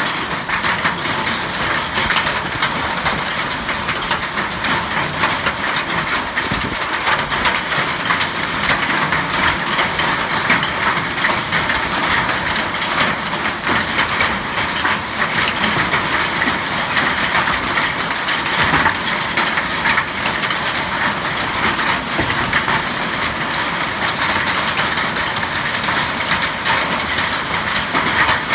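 Hail and rain pelting down in a heavy storm: a dense, steady clatter of countless small impacts.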